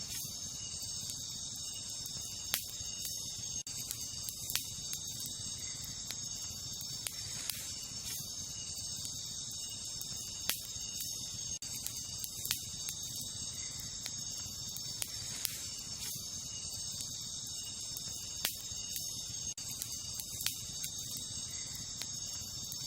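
Wood campfire crackling, with sharp single pops every second or two. Under it runs a steady, high-pitched chorus of night insects.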